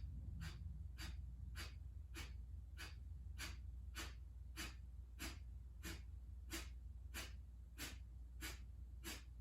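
Kapalabhati breathing: a long, even series of short, sharp, forceful exhales through the nose, just under two a second, with quiet passive inhales between them.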